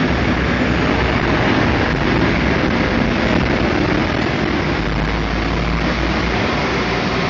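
Class 172 diesel multiple unit running at the station, a loud steady engine drone and rumble.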